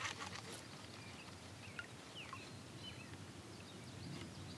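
Birds chirping faintly: short, scattered calls and little whistled glides over a low background hiss. A brief noisy clatter comes in the first half-second.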